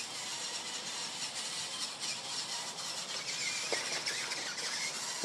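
Radio-controlled toy monster truck's small motor whining steadily as the truck drives off through snow.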